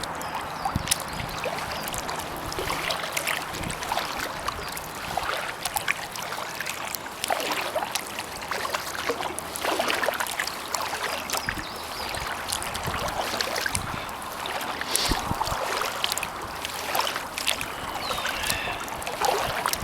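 Kayak paddling: water dripping and splashing off the paddle blades with each stroke, over a faint low hum of distant highway traffic.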